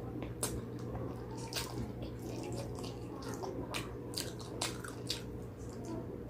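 Close-up wet chewing and lip-smacking of a person eating pig trotters: irregular sticky, wet clicks every fraction of a second, over a steady low hum.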